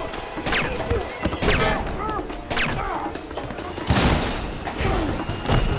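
Movie fight sequence: a rapid run of hits, thuds and crashes, with short shouts, over a dramatic film score. The heaviest impact comes about four seconds in.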